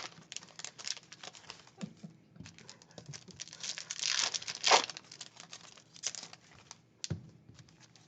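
Trading card pack wrappers being torn open and crinkled, with a run of short crackling rustles; the loudest rip comes a little before five seconds in.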